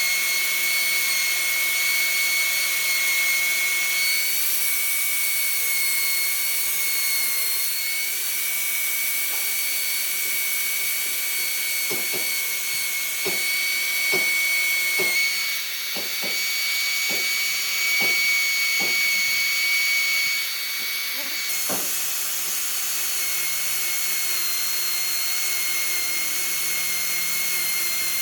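Wood lathe running with a steady high whine, turning an epoxy-and-wood piece. A run of short clicks comes through in the middle.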